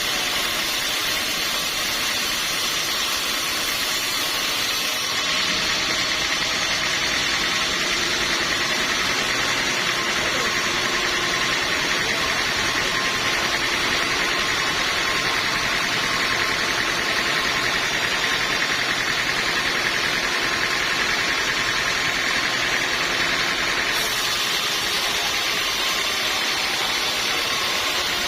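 Sawmill machinery running steadily with a dense, even noise. About five seconds in it gets slightly louder and its tone shifts, and a few seconds before the end it shifts back.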